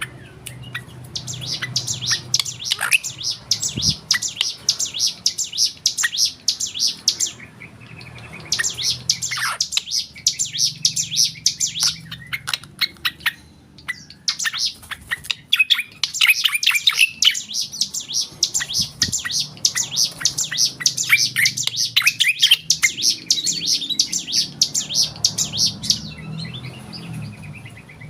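Black drongo singing long runs of rapid, repeated chirping notes, broken by short pauses about a third of the way in, halfway, and near the end.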